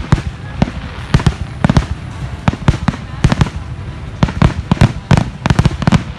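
Fireworks going off: an uneven barrage of sharp bangs, about three or four a second.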